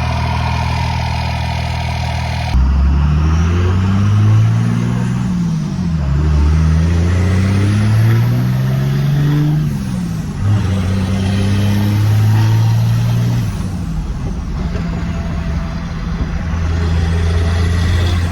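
24-valve Cummins 5.9 L inline-six turbo diesel idling, then accelerating hard about two and a half seconds in. The engine note climbs and drops back three times, each pull carrying the high whistle of its big aftermarket turbocharger spooling up and falling away.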